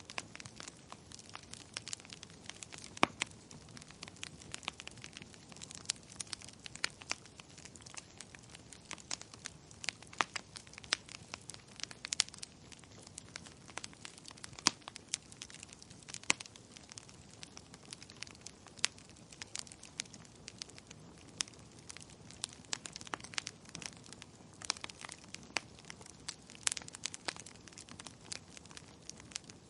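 Wood fire crackling in a fireplace: a steady low hiss with many irregular sharp pops and snaps, the loudest about three seconds in.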